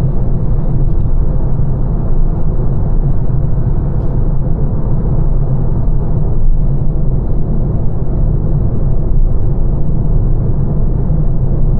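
A 2025 Lancia Ypsilon on the move: a steady low rumble of road and tyre noise.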